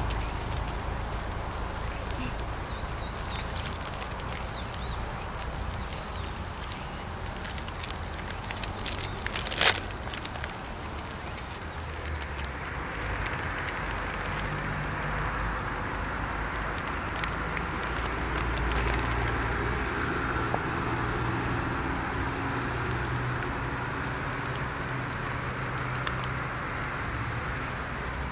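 Hot oil sizzling and crackling as food fries, growing fuller from about twelve seconds in. One sharp click sounds near ten seconds in.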